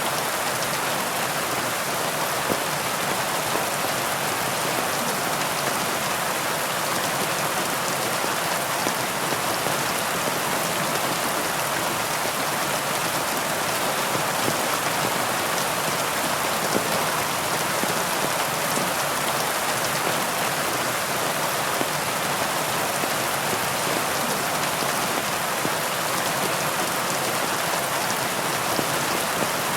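Heavy rain falling steadily, a dense even hiss of drops with fine patter on leaves.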